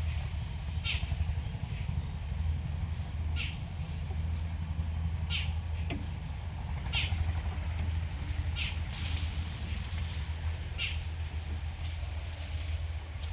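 A bird gives a short, high call about every one to two seconds over a steady low engine rumble.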